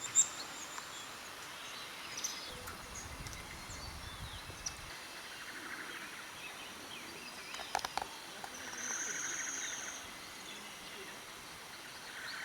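Forest ambience with scattered bird calls: short chirps and trills, including a high chirping phrase about nine seconds in, and a few sharp clicks a little before that.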